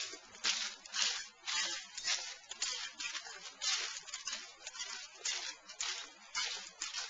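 Footsteps crunching and rustling through dry fallen leaves on a wooden boardwalk, about two steps a second in a steady walking rhythm.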